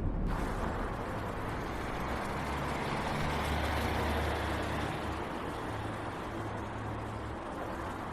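A steady low engine-like rumble under a wash of noise, a little stronger in the middle and easing off after about seven seconds.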